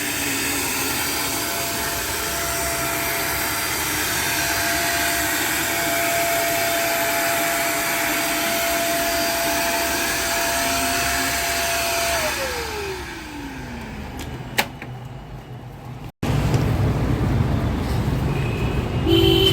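An electric blower or fan motor running with a loud hiss and a steady whine, which winds down in pitch and dies away about twelve to fourteen seconds in. After a sudden cut, a low steady rumble.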